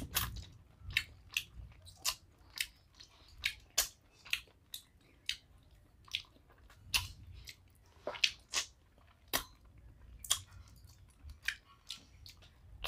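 Close-miked chewing of rice and chicken curry eaten by hand: wet mouth clicks and lip smacks, irregular, about one or two a second.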